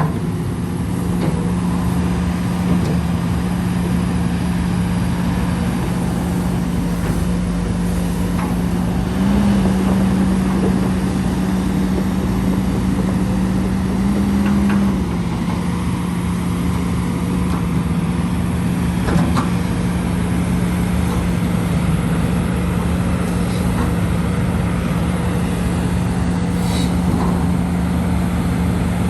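Heavy machine's engine running steadily, its pitch rising briefly for several seconds before settling back, as if working harder.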